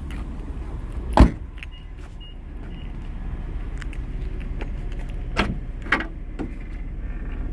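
A car door shuts with one heavy thump about a second in. Two sharp clicks come a few seconds later, over keys jangling and a low steady rumble.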